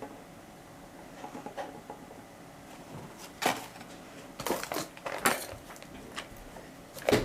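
Small cardboard boxes and plastic packaging being handled: a scattered series of short taps, clicks and crinkles, the busiest stretch a little after halfway and one sharp click near the end.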